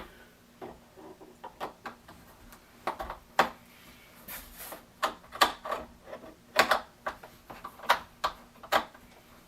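Irregular clicks and knocks of hard plastic parts being handled as the reservoir docking bay is fitted and screwed onto a Keurig K-2550 coffee maker, about a dozen sharp taps spaced unevenly.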